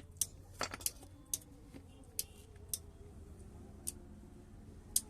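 Irregular sharp clicks and taps of small hard parts being handled, about eight in five seconds, with two quick ones close together near the start, over a low steady hum.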